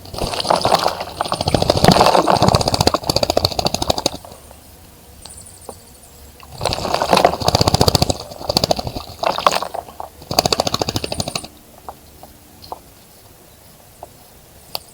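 A bird bathing in a bird bath, beating its wings in the water in three bouts of rapid splashing: a long one of about four seconds, then after a pause two shorter ones.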